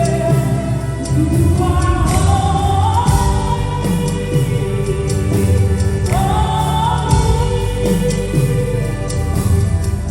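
Live gospel worship music: singers with a band, the sung melody rising and held over sustained keyboard and drums.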